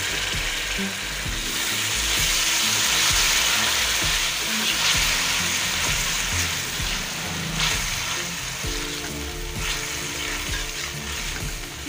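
Tomato paste sizzling in hot oil over fried onion and ginger-garlic paste, stirred and scraped around the pan with a metal spoon. The sizzle is loudest in the first half and eases a little later on.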